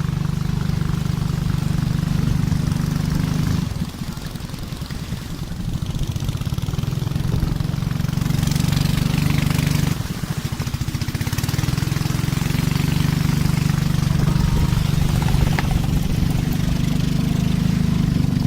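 Boat engine running steadily, easing off briefly twice, about four and ten seconds in.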